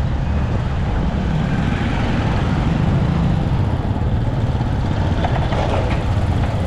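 Motorcycle running steadily while riding in city traffic, its low engine drone under a constant rush of road and traffic noise.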